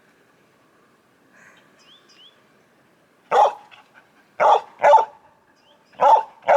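Border collie barking: five short, sharp barks, the first about three seconds in, then two quick pairs.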